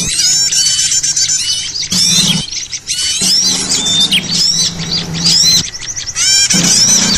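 A noisy chorus of many small birds chirping and twittering over one another, with fast high chirps and quick sweeping calls packed densely together: a bird-luring (pikat) recording for small birds.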